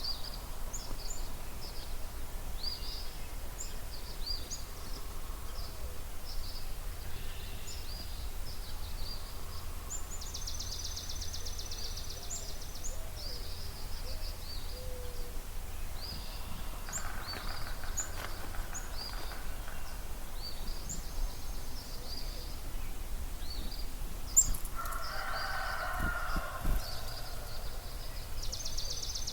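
Dawn chorus of several wild songbirds by a marsh: many short, high chirps and phrases overlap throughout, with a fast, even trill about a third of the way in and again near the end. Twice, around the middle and later on, a lower, coarser call rises out of the chorus over a steady low rumble.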